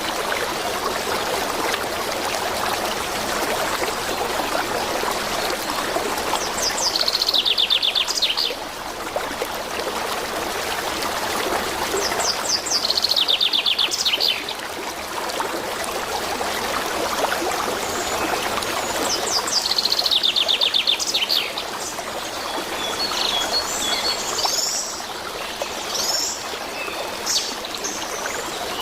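Steady running water of a stream, with a songbird repeatedly singing a quick descending trill of rapid notes, three times about six seconds apart, and scattered chirps near the end.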